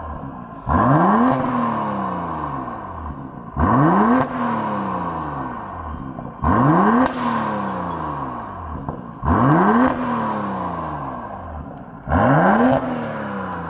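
BMW X6 40i's turbocharged inline-six, heard through a Brillante exhaust with a straight-piped middle section, revved five times about three seconds apart. Each rev rises sharply, holds briefly, then falls away slowly.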